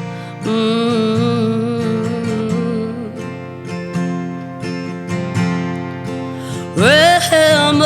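Acoustic guitar strummed and picked in chords between sung lines. Near the end a woman's voice comes in on a rising, then held, wavering note.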